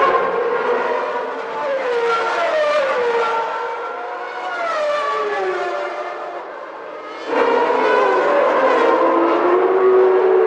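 Early-1990s Formula One engines at racing revs, several cars at once, their pitch sliding down and climbing again as they pass and change gear. The sound fades somewhat, then jumps suddenly louder about seven seconds in.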